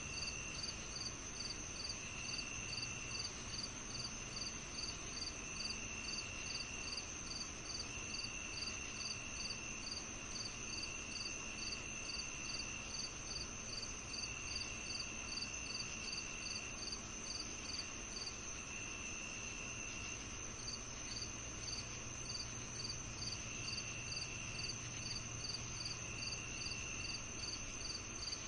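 A chorus of crickets and other night insects: one steady high-pitched trill, a cricket chirping evenly at about two to three chirps a second, and a lower trill that comes in spells of about a second every couple of seconds.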